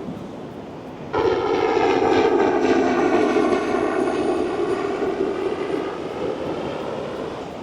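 Aircraft engine overhead, setting in abruptly about a second in, then slowly falling in pitch and fading as it passes.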